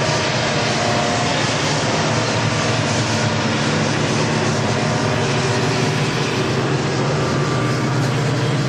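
Diesel freight locomotives running past under power, with a steady, loud engine drone over the general noise of the train.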